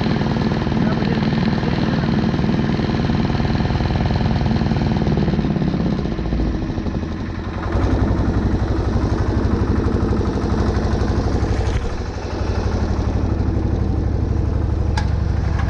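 Air-cooled single-cylinder Deutz diesel of a 1970s Case roller compactor running with a fast, even chug. It dips briefly about seven seconds in and again around twelve seconds, then picks back up.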